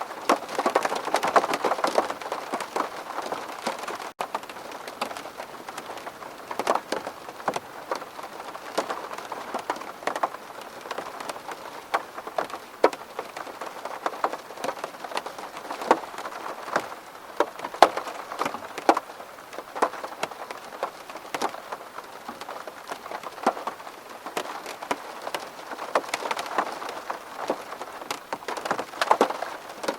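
Rain on a window pane: a steady hiss of falling rain with many single drops striking the glass sharply, denser and louder near the start and again near the end.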